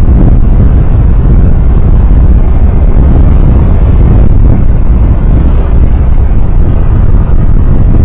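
Loud, steady low rumble of a moving road vehicle heard from an onboard camera: engine and road noise mixed with wind rumbling on the microphone.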